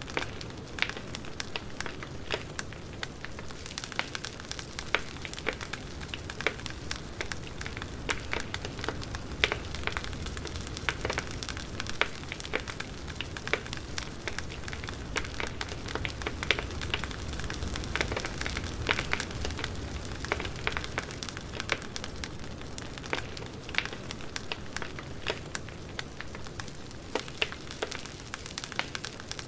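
Campfire burning with a steady hiss and frequent irregular crackles and pops of burning wood.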